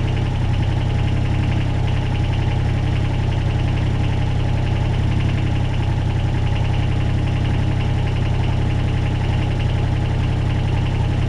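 Kubota BX22 compact tractor's three-cylinder diesel engine running steadily at low idle, with a thin steady tone above the engine note.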